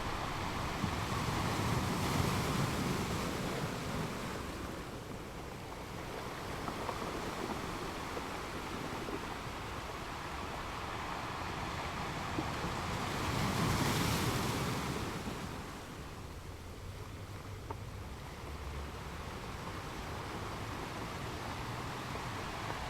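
Ocean waves washing onto a beach: a steady hiss of surf that swells twice, once about two seconds in and again, brighter and louder, about fourteen seconds in, as waves break and run up the shore.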